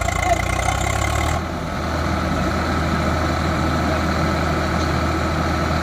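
Diesel engine of a heavy farm machine, a tractor or backhoe loader, running steadily near idle. The sound changes character about a second and a half in.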